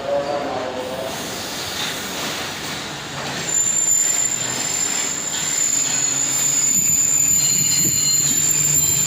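Passenger train rolling into the station and slowing, its coaches rumbling on the rails. About three and a half seconds in, a steady high-pitched metallic squeal from the wheels and brakes starts and holds.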